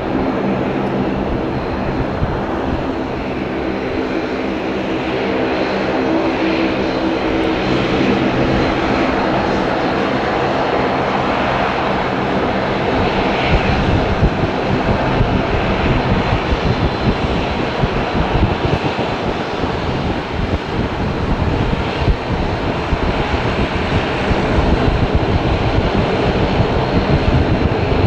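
Airliner's jet engines passing close. For about the first half there is a steady hum made of several tones, then a rough, rumbling noise that grows a little louder toward the end.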